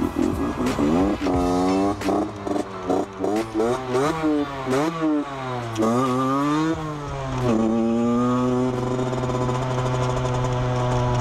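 Motorcycle engine revved hard, its pitch rising and falling in quick swings for several seconds, then holding a steady pitch for the last few seconds.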